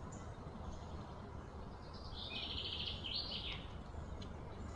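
A bird calling outdoors: a rapid run of high, chattering notes about two seconds in, lasting about a second and a half, over a steady low background rumble.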